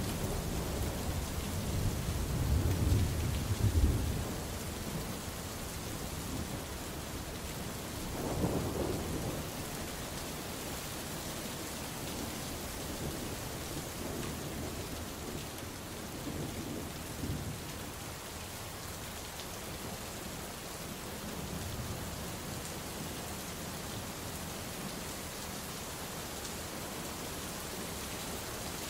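Steady rain with thunder: a loud rolling rumble about two to four seconds in, a weaker one around eight seconds, then fainter distant rumbles as the rain carries on alone.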